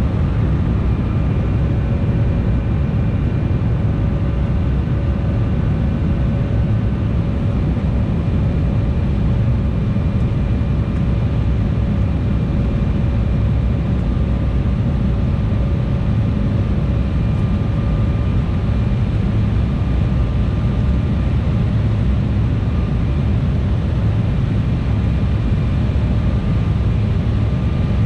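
Embraer E175 jet cabin noise: a steady, unchanging low rumble of engines and airflow with faint constant whining tones above it.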